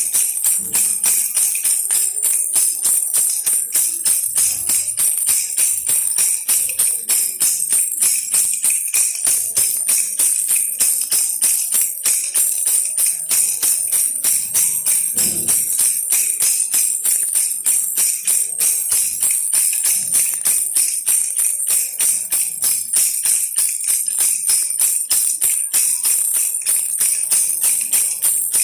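A baby rattle toy shaken over and over in a steady rhythm of about three shakes a second, making a bright, high jingling rattle.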